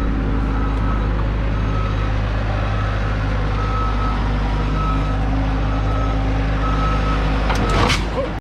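A vehicle's engine runs steadily while its reversing alarm beeps repeatedly, about one and a half beeps a second, as it backs up. There is a brief clatter near the end.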